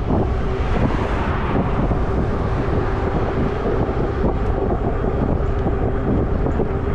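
Wind rushing over the microphone of a camera on a moving e-bike, a steady dense rumble with a faint constant hum underneath.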